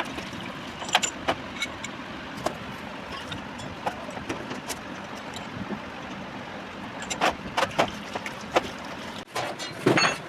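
Scattered light clicks and knocks of tools and metal engine parts being handled over a steady background hiss, with a cluster of louder knocks near the end.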